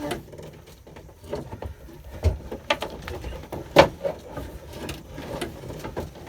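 Old boat steering cable being pulled out through its run, dragging with irregular scrapes and knocks. The sharpest knock comes about four seconds in.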